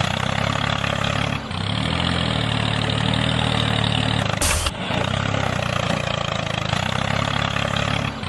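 A motor running steadily with an engine-like drone. It shifts in pitch about a second and a half in, and a short burst of noise cuts through near the middle.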